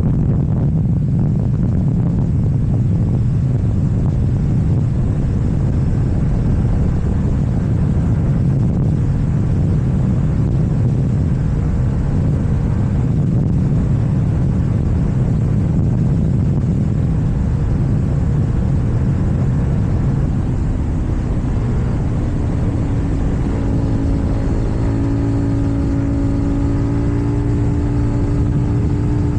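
KTM 790 Duke's parallel-twin engine with an Akrapovič exhaust running steadily while riding, mixed with road rumble; in the last several seconds the engine note steadies into a clear, even tone.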